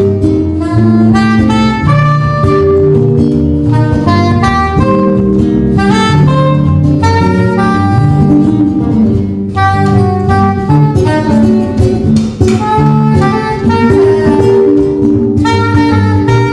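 A three-piece band playing instrumental music live: a melody line of held and moving notes over chords and a walking low bass line, with no singing.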